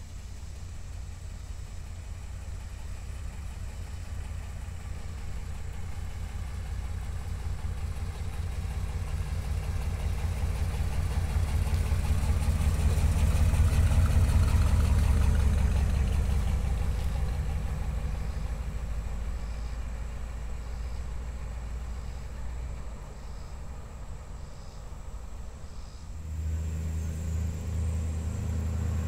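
A 1956 Ford Thunderbird's 312 V8 with dual exhaust drives past. The engine and exhaust note grow steadily louder, peak about halfway through as the car goes by, then fade away. Near the end the engine sound jumps up again as the car approaches once more from a distance.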